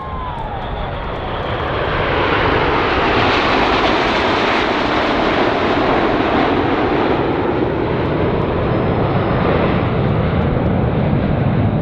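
BAE Hawk T1 jets with Rolls-Royce Turbomeca Adour turbofans flying past in formation. The jet roar swells over the first few seconds, then holds steady and loud.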